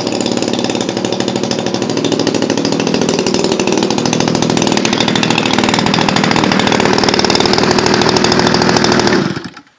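MLD 35 cc two-stroke gas engine of a model Pitts Special airplane running steadily, then cutting off abruptly near the end.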